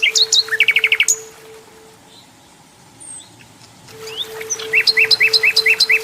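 Common nightingale singing: a phrase of fast repeated notes at the start, a short pause, then another rapid run of repeated notes from about four and a half seconds in.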